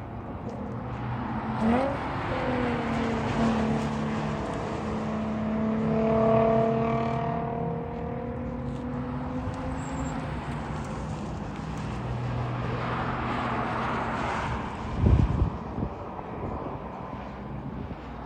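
Sports car engine running. Its pitch rises briefly near two seconds, then holds a steady note for several seconds. A loud low thump comes about fifteen seconds in.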